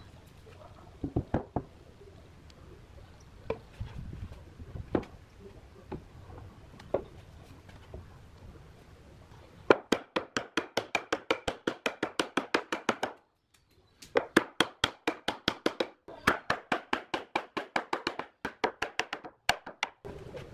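Wood being worked by hand with a tool. A few scattered knocks are followed, about halfway in, by a fast, even run of strokes on wood at about eight a second, breaking off briefly twice before stopping near the end.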